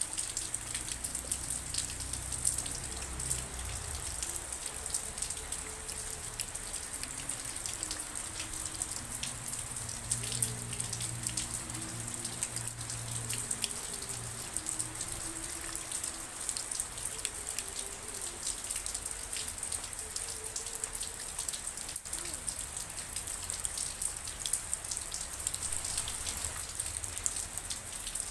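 Steady rain falling on a surface: a dense, even run of individual drop ticks. A faint low hum lies underneath through the middle.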